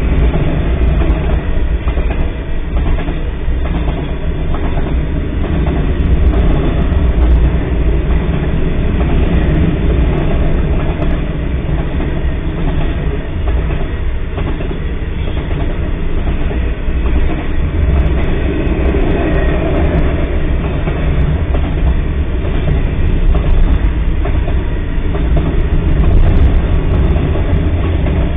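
Freight train cars rolling past at a grade crossing: a steady, loud, low rumble of steel wheels on the rails.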